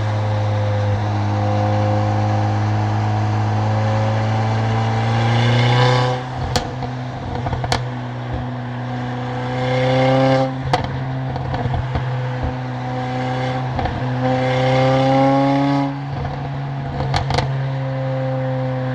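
Stage 2-tuned Mercedes-AMG CLA45's turbocharged four-cylinder, with a loud exhaust, accelerating through the gears. The engine pitch climbs and drops sharply at three upshifts. Sharp cracks from the exhaust follow the shifts.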